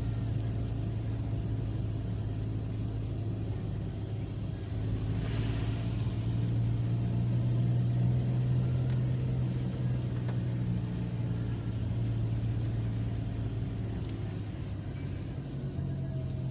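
Car engine running steadily while driving, a low hum that grows a little louder midway, with a short hiss about five seconds in.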